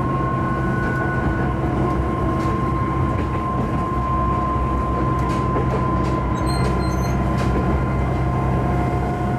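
Diesel railcar of the Hitachinaka Seaside Railway running along the line: a steady engine and transmission drone with a held whine, and a few faint clicks from the wheels.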